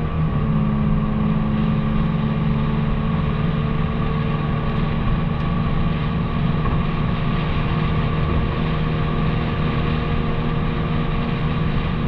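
Infiniti G37's VQ37VHR 3.7-litre V6, straight-piped with muffler and resonator deleted, running with a steady exhaust drone at nearly constant engine speed.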